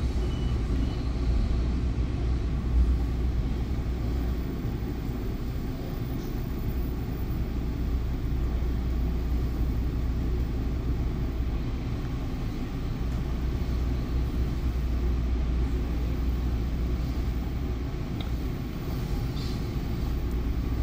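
Steady low rumble of a Bombardier MultiLevel commuter coach rolling along the track, heard from inside the car.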